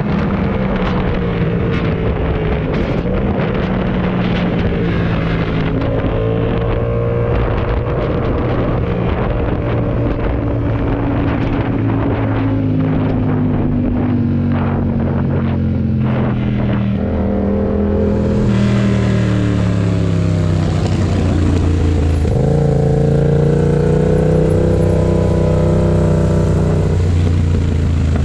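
Yamaha MT-07's 689 cc parallel-twin engine running while riding. Its pitch sinks slowly through the middle as the bike slows, jumps about 22 seconds in, then holds fairly steady.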